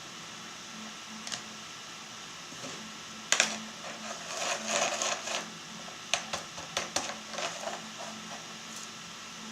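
Steady hiss with a faint hum. From about three seconds in, an irregular run of sharp clicks and short crackles lasts several seconds, then the hiss carries on alone.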